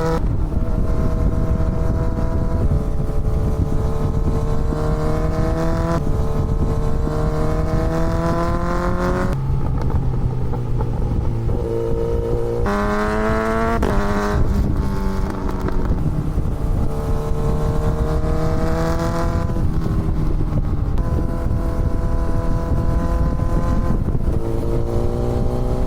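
Kawasaki Z900 inline-four motorcycle engine under way, rising in pitch as it pulls and dropping at gear changes every few seconds, with wind rushing on the microphone.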